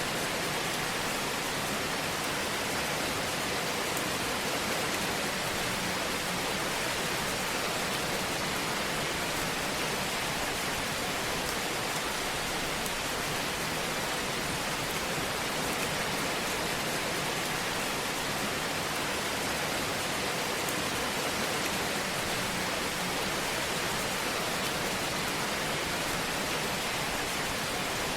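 Wood fire burning in a fireplace: a steady hiss with scattered faint crackles.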